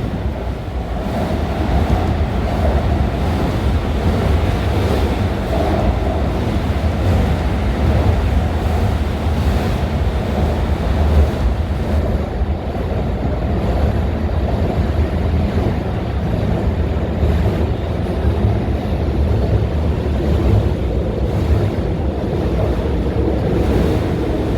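Marine Liner electric train running at speed, a steady low rumble of wheels on rail.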